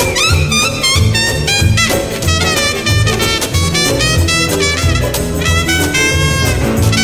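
A live jazz band playing: trumpet and other brass horns play bending, interweaving lines over a steady pulsing bass.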